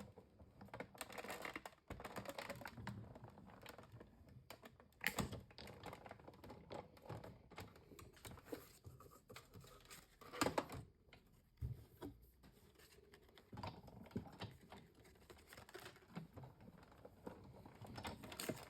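Hand-cranked Stampin' Cut & Emboss die-cutting machine rolling a die-and-plate sandwich through its rollers: a steady run of irregular small clicks and crackles, with a couple of sharper knocks about five and ten seconds in.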